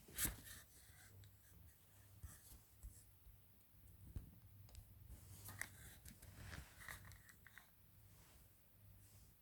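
Faint scattered rustling and small clicks against near silence, with one sharper click about a quarter second in.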